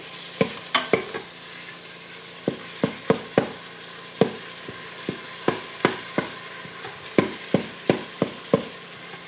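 Ground beef sizzling as it browns in the pot of a 6-quart Cook's Essentials electric pressure cooker, with a utensil knocking and scraping against the pot as the meat is stirred, in irregular taps about two or three a second.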